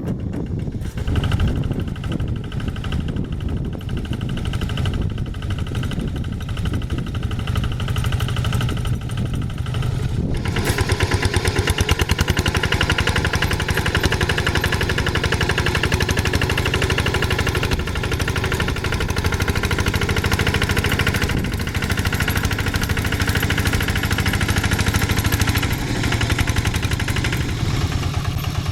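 Diesel engine of a two-wheel hand tiller tractor running steadily, then growing louder with a denser, faster rattle about ten seconds in.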